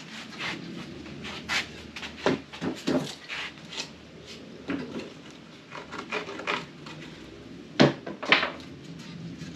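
Irregular knocks, clicks and scrapes of cedar dock slats being worked loose with hand tools, with two sharp, louder knocks in quick succession near the end.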